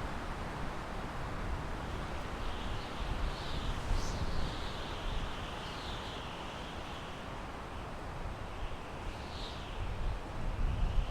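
Wind blowing through pine trees: a steady rushing with a gusty low rumble. Faint, high, wavering calls come through from about two seconds in and again near the end.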